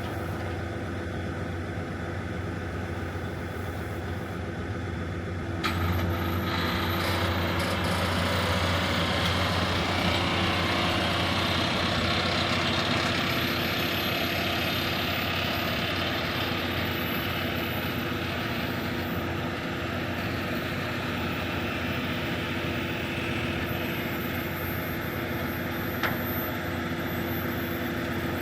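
John Deere 2660 tractor engine running steadily. About six seconds in it grows clearly louder and harsher, and it stays that way, easing only a little. There is a single sharp click near the end.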